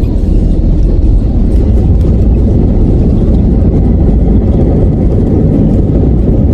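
Loud, steady low rumble of an airliner's engines and airframe heard inside the passenger cabin during landing.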